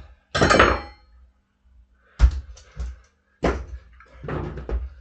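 Several knocks and thunks, the first with a brief metallic ring, as tire irons and the freshly mounted wheel are handled.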